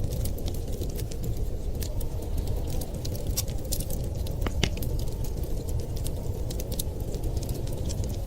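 Wood fire crackling, with frequent small sharp pops and one louder pop about halfway through, over a steady low rumble.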